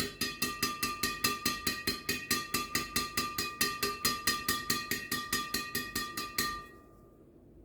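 Yonex Astrox 88D Pro badminton racket strung with Yonex BG66 Ultimax at 28 lbs, its string bed struck in a quick even run of about five hits a second. Each hit gives a sharp ping over a steady high ring from the strings. The hits stop about six and a half seconds in and the ring fades.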